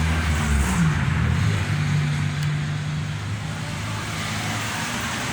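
Steady rushing air noise from a running Solaster Acapulco Plus wall fan, which is known as powerful and noisy. Under it is a low motor-like hum that drops in pitch about a second in and then holds steady.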